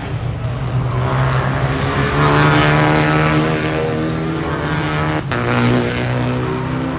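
Rally car engine running hard on the circuit, loudest a little over two seconds in, with a sharp break in the sound about five seconds in.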